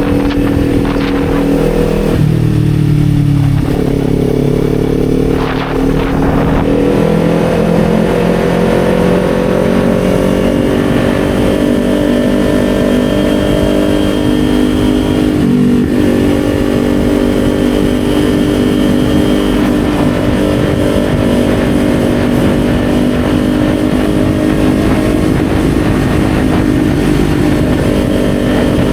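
Kawasaki Z400's parallel-twin engine under way: its pitch drops about two to four seconds in, then climbs steadily as the bike accelerates, breaks briefly about sixteen seconds in as at a gear change, and then holds steady at cruising speed. Wind rush on the microphone runs underneath.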